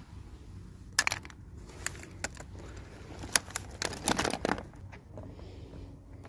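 Small plastic toy pieces and packaging handled by hand: scattered sharp clicks and clatters, with a quick cluster of rattling about four seconds in, over a low steady hum.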